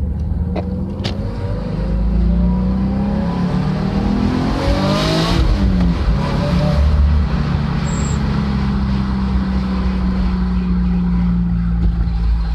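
Subaru Legacy boxer engine and aftermarket exhaust pulling hard, the note rising in pitch for about three seconds, then dropping sharply about halfway through and settling into a steady drone. The engine is running on a retuned fuel-correction map.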